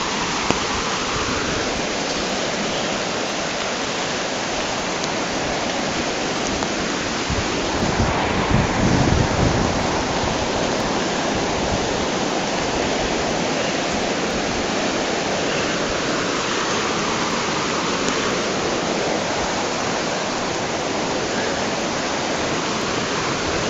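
Fast floodwater of a river running far over its normal level, a steady rushing. A brief louder low rumble comes about eight seconds in.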